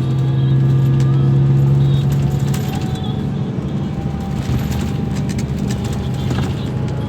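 Scania K340 coach engine running steadily with a deep even hum, a little louder for the first two seconds.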